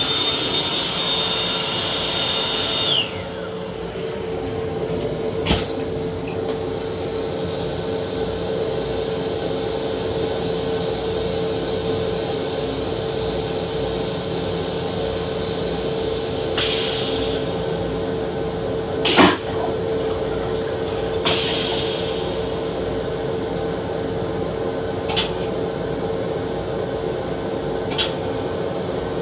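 Steady hum inside the restroom of a Long Island Rail Road M7 electric railcar, with a few sharp knocks and rattles and two short hisses. A high steady whine stops about three seconds in.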